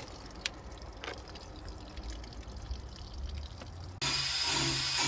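Engine coolant trickling and dripping from a disconnected turbo coolant line banjo fitting, faint, with a few small clicks. About four seconds in it cuts abruptly to a much louder humming sound that stops and restarts in short bursts.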